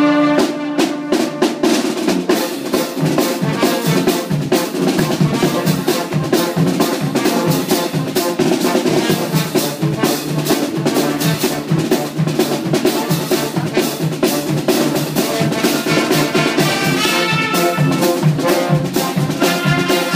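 Brass band music: brass instruments playing over a fast, busy drum-kit beat with snare, coming in right after a held brass chord.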